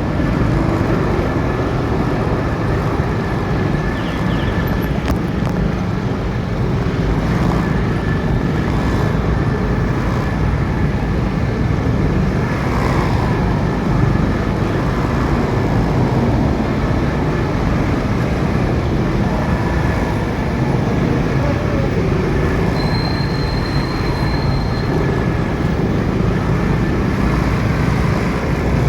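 Motorcycle riding in traffic: steady engine and road noise. A brief high-pitched tone sounds for about two seconds near the end.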